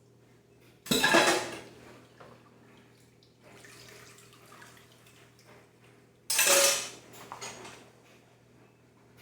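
Dishes being handled during kitchen cleaning: two loud clatters of crockery or pans knocked together, one about a second in and one about six seconds in, with quieter handling noise between them.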